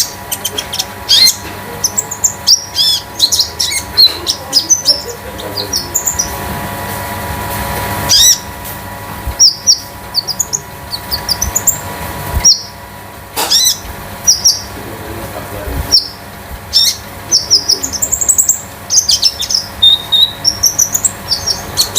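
Konin songbird singing a lively song of short chirps and quick rising and falling whistles, in bursts with brief pauses, over a faint steady hum.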